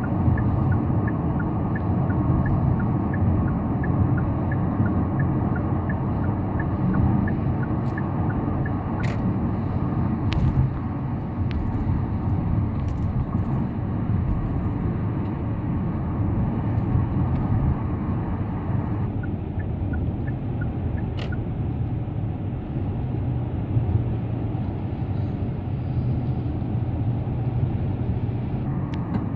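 A car driving on the road: a steady rumble of tyres and engine. A light, regular ticking runs through the first third and returns briefly about two-thirds of the way in, with a few sharp clicks.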